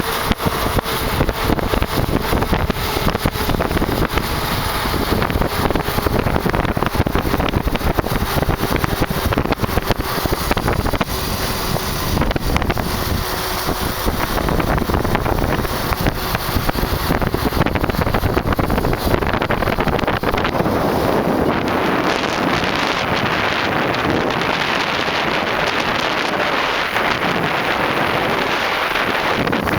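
Wind rushing over the microphone of a motorcycle coasting downhill at about 50 mph with its engine switched off, together with tyre and road noise; no engine is heard. A faint steady whine runs through the first half.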